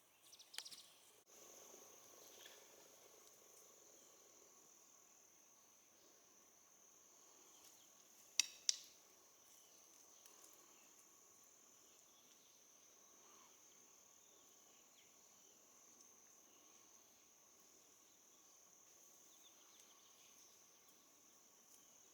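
Faint, steady, high-pitched insect chorus, like crickets, with two sharp clicks in quick succession about eight seconds in.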